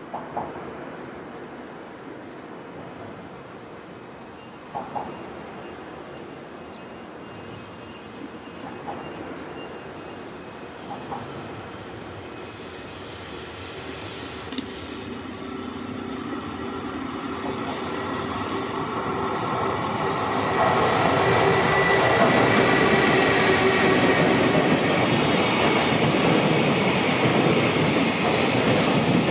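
Insects chirping about once a second over quiet background while a JR Freight container train approaches, headed by an EF210 electric locomotive. The train noise grows until, about two-thirds of the way in, it turns into the loud, steady rumble of container wagons rolling past on the rails.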